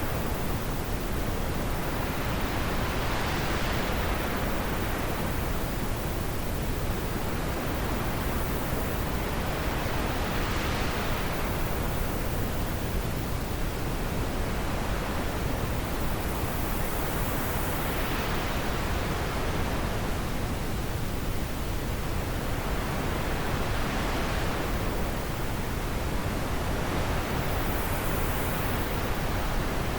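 Wind blowing steadily, a continuous rushing hiss that swells and eases in gusts every several seconds.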